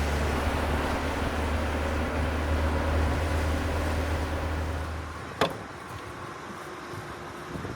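Car engine running with a steady low drone that stops about five seconds in, followed by a single sharp knock.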